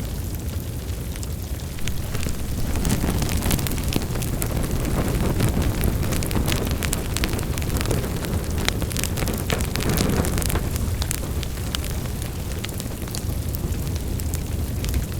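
Fire in a fireplace crackling, with irregular sharp pops and snaps over a steady low rumble of flames; the crackling grows busier about three seconds in and eases off near the end.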